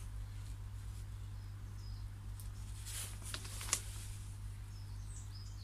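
Faint birds chirping in short high calls, with a few light clicks a little past the middle, over a steady low hum.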